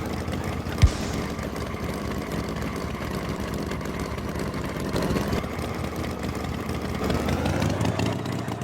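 Cartoon tractor engine sound effect running steadily, with one short thump just under a second in.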